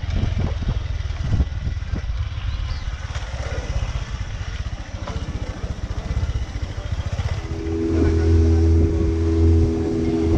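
Motor vehicle engine running under a low rumble with wind on the microphone and a few knocks early on. About three-quarters of the way through, a steady drone with several pitches sets in and grows louder.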